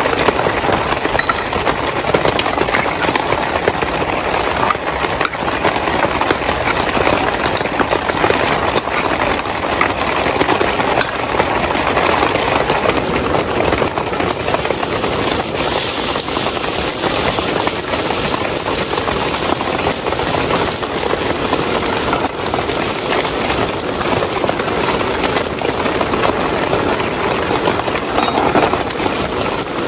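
Heavy rain falling steadily, a dense hiss of many drops; a little after halfway the hiss grows brighter.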